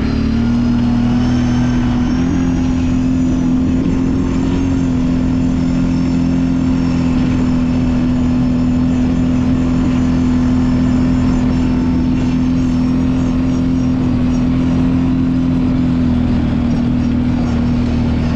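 Kawasaki Brute Force 750 ATV's V-twin engine running at a steady, held speed while riding, its pitch barely changing.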